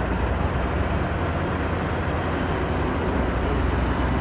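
Steady engine rumble and road noise heard from inside a moving non-AC city bus, with a constant low drone.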